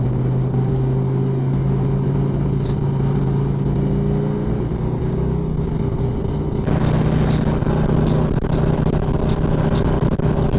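Harley-Davidson Ultra Classic's V-twin engine running at a steady cruise, with wind and road noise. About two-thirds of the way through it changes abruptly to a louder, noisier ride.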